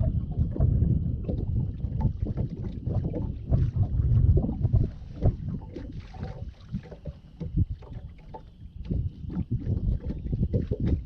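Wind-driven chop slapping and knocking irregularly against the hull of a small fishing boat, with wind gusting on the microphone.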